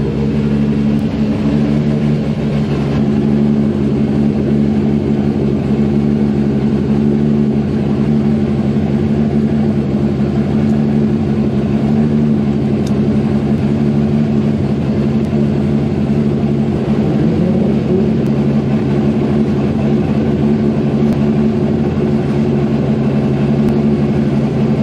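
Drift car's engine idling steadily, heard from inside the cockpit.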